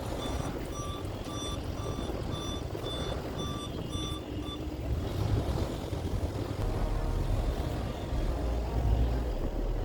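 Vehicle back-up alarm beeping steadily, about two and a half beeps a second, stopping about four and a half seconds in. Under it, strong wind buffets the microphone with a low rumble that grows louder near the end.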